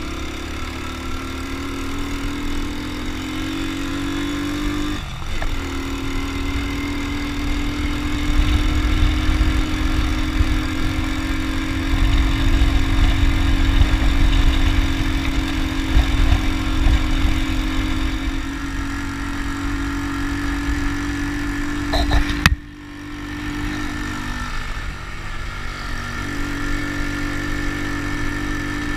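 Honda Win motorcycle's small single-cylinder engine running steadily under way, with low wind rumble on the microphone. The engine note shifts about five seconds in, and the loudness drops sharply for a moment a little over three quarters of the way through.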